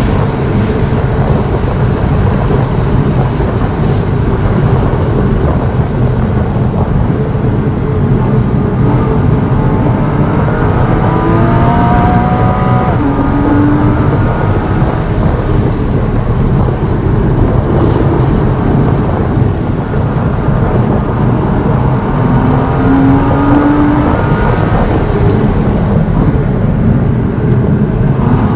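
A car engine heard from inside the cabin on a track lap, running at high revs under hard throttle and backing off for braking. Its pitch climbs as it accelerates, twice.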